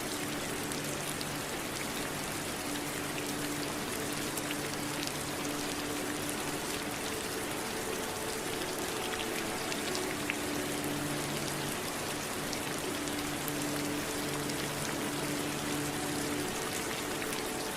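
Steady rain falling, with many individual drops ticking through an even hiss. Faint low held tones come and go beneath it.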